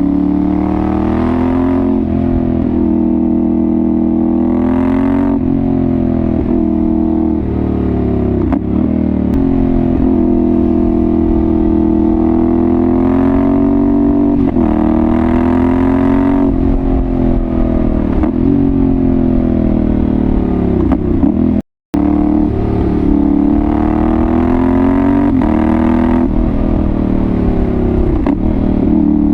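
2022 Yamaha Ténéré 700's CP2 parallel-twin engine running through a Dominator GP1 aftermarket exhaust, its pitch climbing and dropping over and over as the throttle is opened and closed. The sound cuts out for a split second about three-quarters of the way through.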